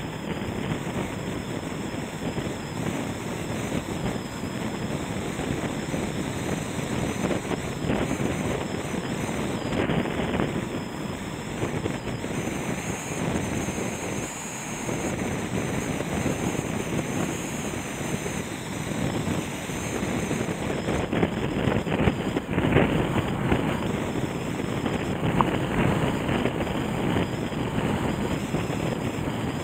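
Floodwater of the Nagara River, swollen by typhoon rain, rushing in a steady roar of water noise, with gusts of wind buffeting the microphone; a little louder about two-thirds of the way through.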